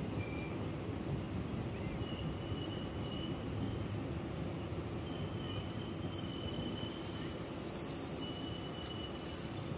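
Passenger train coach rolling along the track, heard from its open doorway: a steady low rumble of wheels on rail, with faint, short high squeals now and then.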